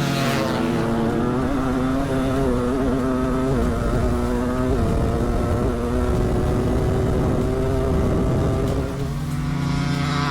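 Dirt bike engine at full throttle during a quarter-mile drag race, the note held high with a brief dip about five seconds in.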